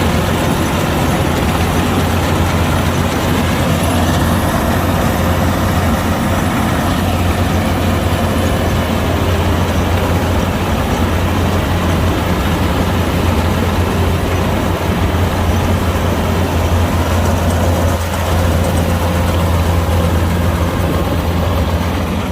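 Kubota DC-105X combine harvester's diesel engine and machinery running steadily and loudly, with a strong low hum.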